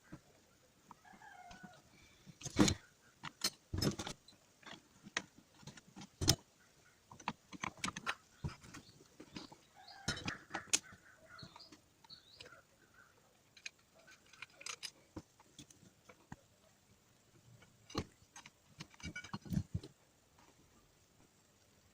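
Irregular clinks and knocks of metal tools and parts being handled while a starter motor is worked on, several louder strikes among lighter taps. Faint short calls can be heard between them.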